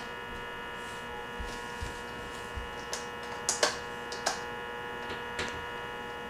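A steady electrical hum, with a scattering of light clicks and taps from plastic alphabet fridge magnets being handled.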